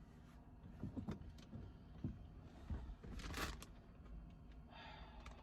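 Faint handling noises in a small airplane's cockpit before engine start: a few soft knocks and rustles, with a brief louder rustle about three seconds in.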